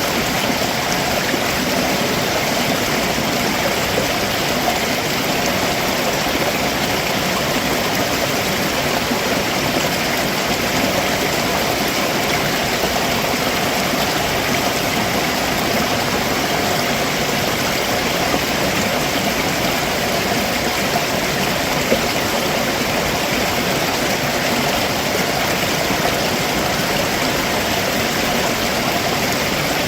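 Stream water running steadily over rocks below a waterfall, a continuous, even rushing and gurgling.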